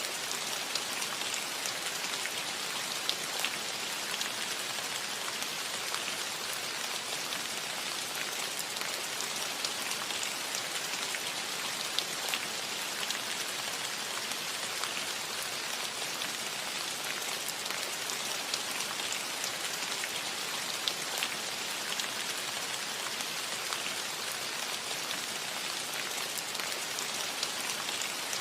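Steady rain falling on a roof: an even hiss with scattered sharper drop hits.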